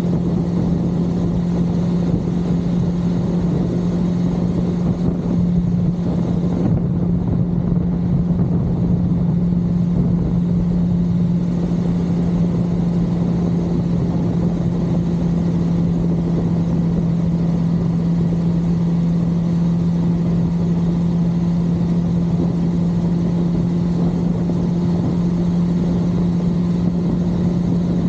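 1982 Suzuki GS550L's air-cooled inline-four engine running at a steady cruise, its note holding one even pitch throughout, over a constant low rush of noise.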